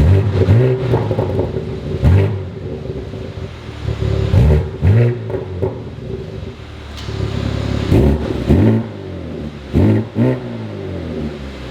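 BMW G82 M4's twin-turbo straight-six revving through an AWE SwitchPath axle-back exhaust in a string of short throttle blips, each rising and falling back to a steady idle, about eight in all, some in quick pairs.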